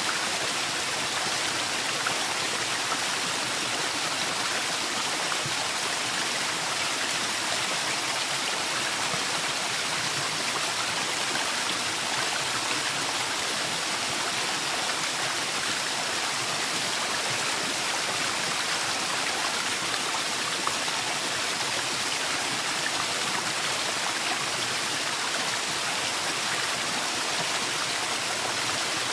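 Waterfall: a steady rush of falling, splashing water with no breaks or changes.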